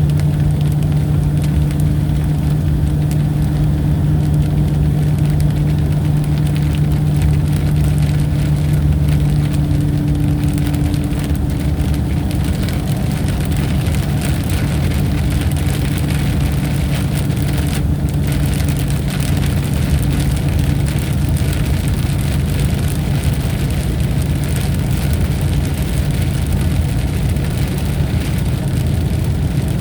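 Steady heavy rain, a continuous hiss, with a low steady hum under it that fades out about two-thirds of the way through.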